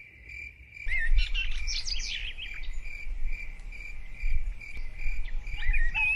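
A cricket's steady pulsing chirp, with birds chirping over it from about a second in and a low rumble underneath.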